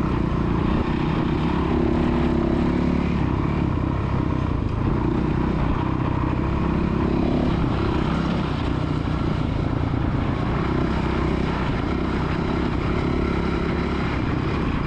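Small motocross dirt bike engine running under throttle, a continuous drone whose pitch wavers a little as the revs change.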